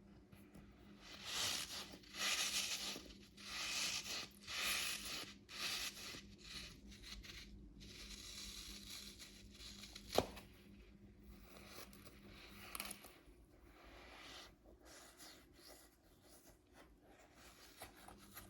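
Rough tearing sounds from a stress toy being opened up, several in quick succession in the first six seconds, then quieter handling with a single sharp click about ten seconds in.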